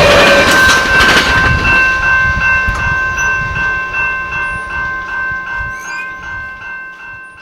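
A real passenger train's rumble fading away as it passes, while a level-crossing bell rings steadily at about two to three strokes a second. The whole sound fades out toward the end.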